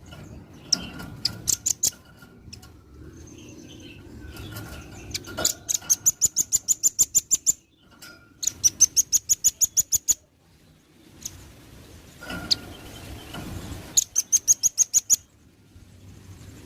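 Velvet-fronted nuthatch singing in four rapid trills of sharp high notes, about ten a second, each burst lasting one to two seconds.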